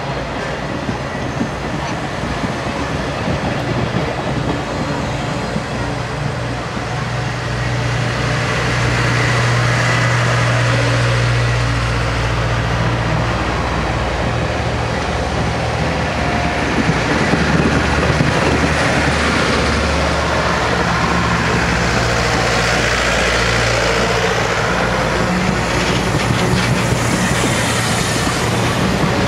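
Excursion passenger train rolling past with a steady low rumble and wheels clicking over the rail joints, getting louder about eight seconds in.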